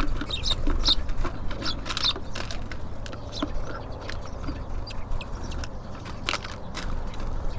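Small birds at a feeder pecking and tapping, a quick scatter of sharp clicks, with a few short high chirps in the first couple of seconds. A steady low rumble runs underneath.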